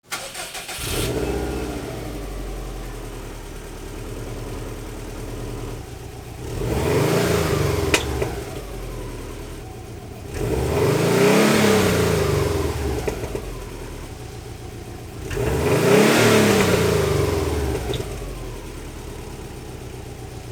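2002 Subaru WRX's turbocharged flat-four through a Borla Hush cat-back exhaust, running and revving up and back down three times, about every four to five seconds.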